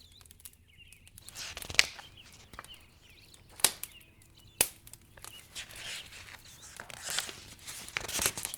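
Wood fire crackling, with three sharp pops about two, three and a half, and four and a half seconds in, among softer crackles and rustling.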